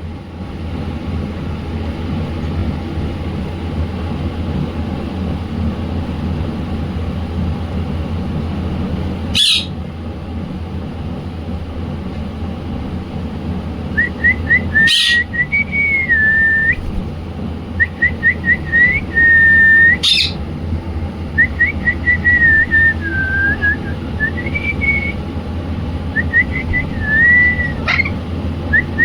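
Indian ringneck parrot whistling, from about halfway through: runs of quick rising chirps and held, wavering notes, over a steady low hum. Three sharp, loud, sudden sounds stand out, one before the whistling starts and two among it.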